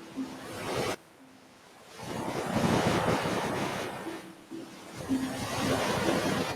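Ocean surf washing onto a beach: a quiet lull, then a wave swells up and rushes in about two seconds in, with another surge near the end.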